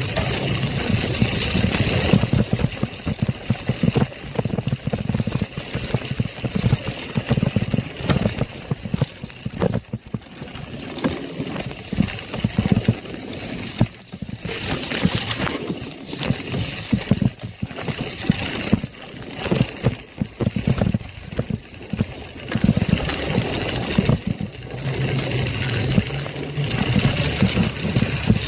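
Motorbike engine running unevenly, its sound rising and falling irregularly, with many brief dips.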